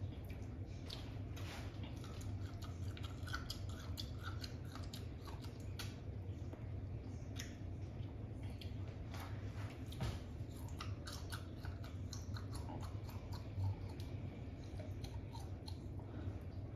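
Biting and chewing a whole raw lime, peel included: many irregular small wet crunching clicks.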